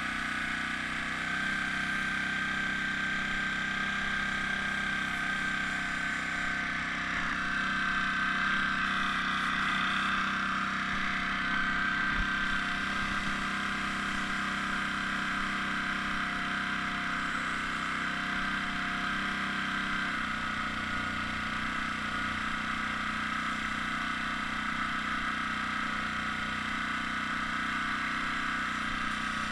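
Air compressor feeding an airbrush, running with a steady hum that shifts slightly in pitch a few times.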